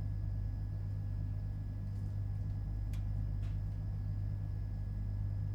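Steady low hum inside a JR Hokkaido 721-series electric train car, with a few faint clicks and no motor whine rising or falling.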